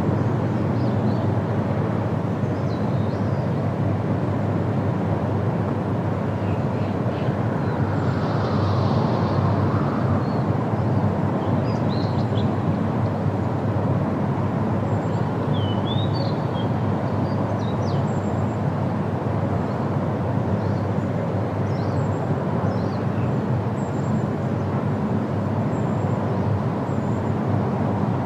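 Steady wind rushing through tree leaves, with faint, scattered short bird chirps above it.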